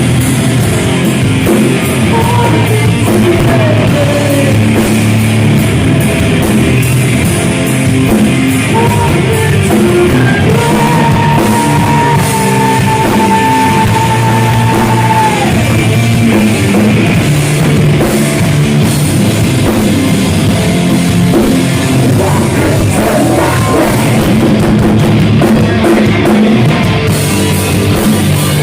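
Heavy metal band playing live: loud guitars and a pounding drum kit with vocals, and one long high note held for about five seconds midway.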